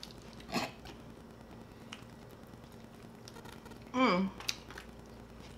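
Close-up mouth sounds of eating grilled chicken: scattered wet clicks and lip smacks of chewing, the loudest about half a second in, with a short vocal sound about four seconds in.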